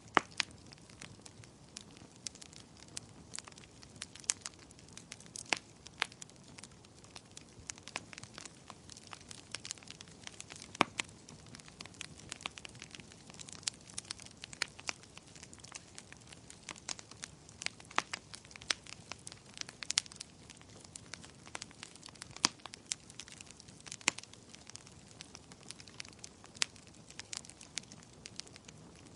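Fire in a fireplace crackling: irregular sharp pops and snaps, several a second, over a soft steady hiss.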